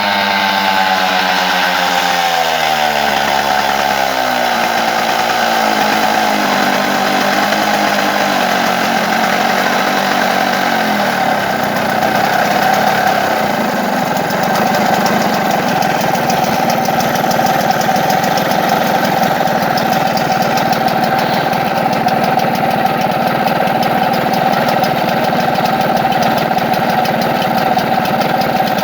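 An engine test-run after a repair, its revs falling steadily over roughly the first twelve seconds and then settling into a steady idle.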